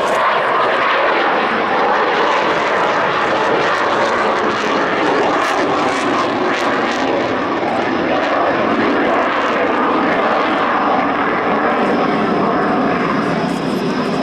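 MiG-29 fighter jet's twin Klimov RD-33 turbofan engines, a loud, steady jet roar with no clear rise or fall.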